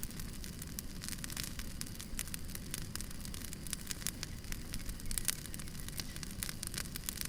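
Burning firewood crackling with irregular sharp pops and snaps over a low, steady rumble of the fire.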